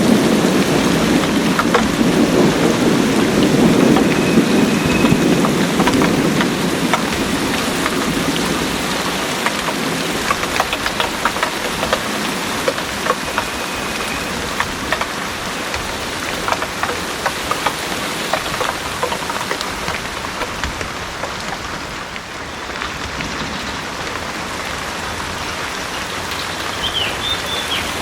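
Heavy rain falling steadily, with many individual drops ticking. A low rumble of thunder dies away over the first several seconds.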